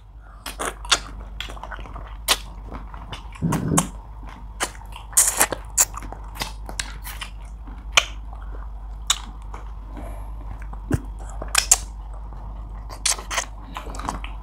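Wet, close-up eating sounds: chewing, lip smacks and sharp sucking clicks scattered irregularly, from people eating fish with their fingers. A short low hum-like voice sound comes about three and a half seconds in.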